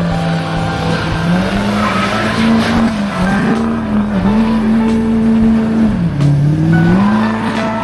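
A car engine held at high revs, its pitch steady apart from two brief dips and recoveries, the deeper one about six seconds in, with tyre squeal over it.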